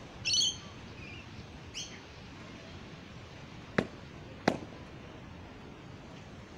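A bird gives a short squawking call near the start, followed by a couple of fainter chirps. Two sharp knocks come about two-thirds of a second apart in the middle, against a light outdoor hiss.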